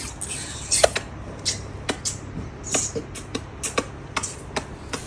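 A baby making a series of sharp clicking sounds with its mouth, about a dozen clicks at an uneven two to three a second.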